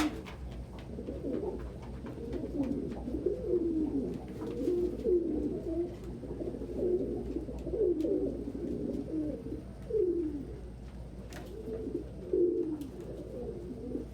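Several domestic pigeons cooing continuously, their low rolling coos overlapping one another, with a few faint clicks in between.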